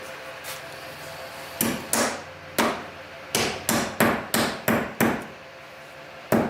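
Hammer driving a nail, about ten blows. They start about a second and a half in, run at about three a second in the middle, and end with one last blow near the end.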